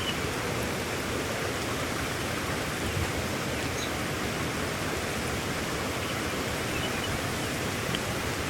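Heavy rain falling in a steady, even hiss, with a few faint drip ticks.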